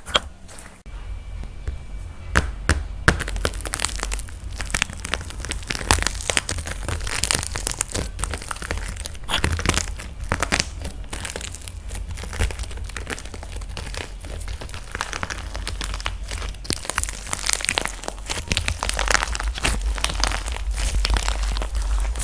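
Dried plaster clay being cracked and crumbled by hand: dense, irregular crisp crackles and crunches, with a steady low hum underneath.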